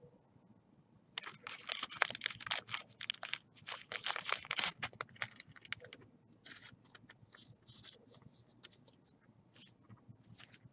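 Baseball trading cards being handled and flipped through: quick, crisp flicks and scrapes of card stock, thickest for a few seconds and then sparser.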